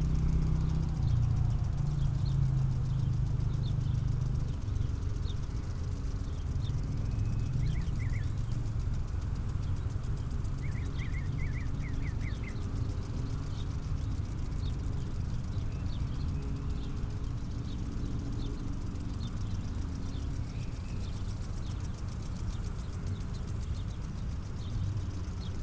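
Outdoor ambience: scattered short bird chirps, with a quick trill about eleven seconds in, over a steady low rumble.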